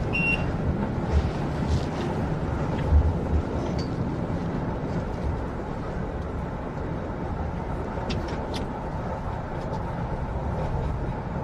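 Steady low rumble of a moving passenger vehicle heard from inside, with a few faint clicks about eight seconds in.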